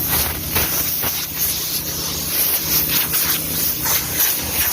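Hissing, spraying noise coming in short irregular spurts, over a steady low hum.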